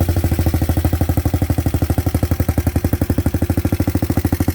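Hawk 250 motorcycle's single-cylinder four-stroke engine idling with an even, rapid beat.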